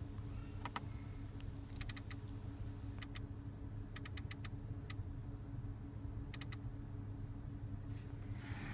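Audi MMI centre control knob and buttons clicking as they are turned and pressed, in short clusters of sharp clicks, over a low steady hum in the car's cabin.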